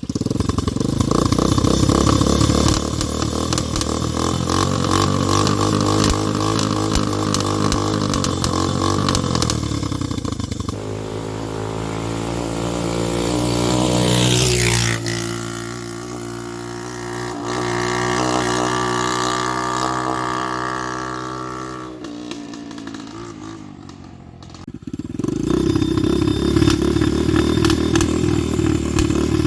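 Chinese KXD 125 quad's small single-cylinder engine running as the quad is ridden. The pitch climbs and then drops sharply about halfway through. The engine fades a little after that, then comes back loud near the end.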